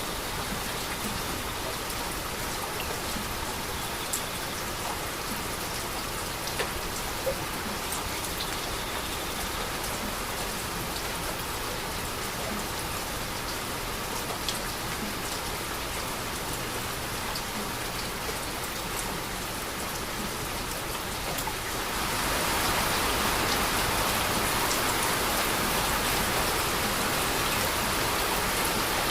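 Steady heavy rain falling, with scattered drops ticking sharply on a hard surface; the downpour grows heavier about three quarters of the way through.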